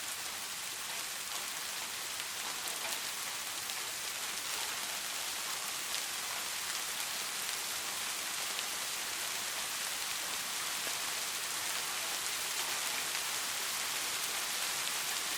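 Steady rain, an even hiss of many drops with a few faint separate drop ticks.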